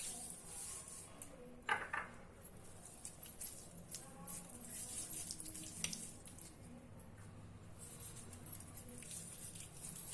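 Faint kitchen handling sounds as chicken pieces are rubbed with a turmeric, red colour and salt marinade by hand, with a dish or utensil clinking about two seconds in and a lighter tap near six seconds.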